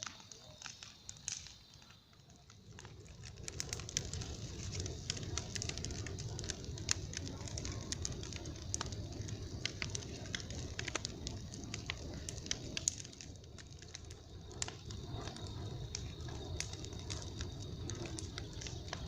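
Wood campfire crackling, with irregular sharp pops over a low steady rumble that comes up about three seconds in.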